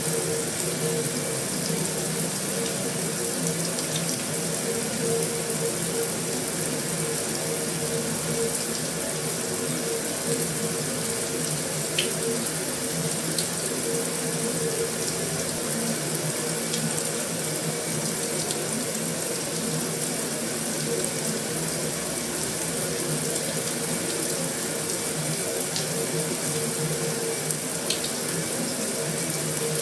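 Steady heavy rain falling on a metal roof: an even, unbroken hiss with a few sharper single drop ticks scattered through it.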